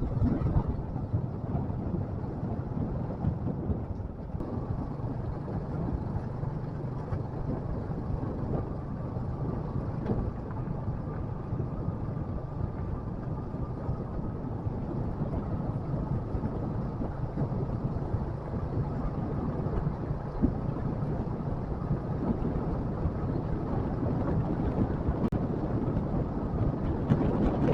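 Motorcycle engine running steadily while riding, a constant low rumble with wind noise on the microphone.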